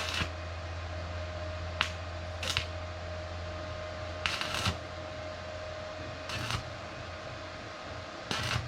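Hand tools being handled on a steel boat frame: scattered short clicks and clattering knocks, about six in all at irregular intervals, over a steady low electrical hum.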